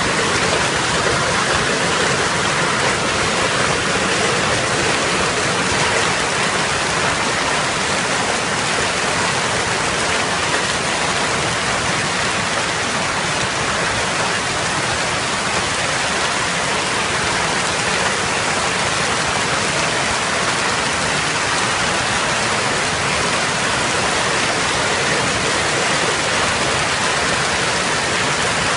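Hailstorm downpour: hail and heavy rain falling steadily, a dense, unbroken hiss.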